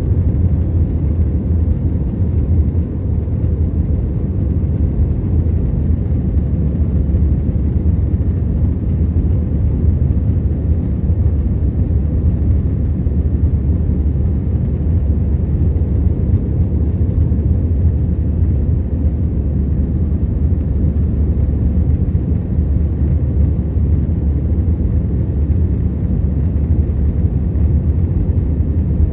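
Steady low rumble inside the cabin of an Airbus A321 in its climb after takeoff, with its two CFM56 engines at climb power.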